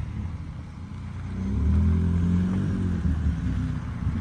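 BMW 3 Series (E46) saloon's engine running at low speed as the car pulls up on a dirt road, a low hum that grows louder about a second and a half in.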